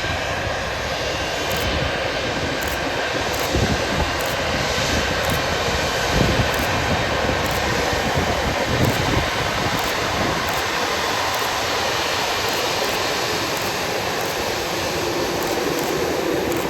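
Airbus A220-300's Pratt & Whitney PW1500G geared turbofan engines running with a steady jet noise, broken by a few brief low rumbles in the middle.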